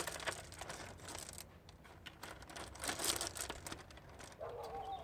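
Sea stones being handled and pressed into wet mortar: scattered gritty scraping and clicking, loudest right at the start and again about three seconds in.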